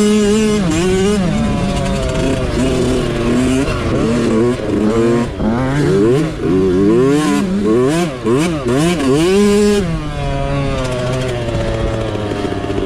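Mini bike engine revving up and down over and over as the throttle is opened and closed through the course. About ten seconds in it settles to a lower, steadier note.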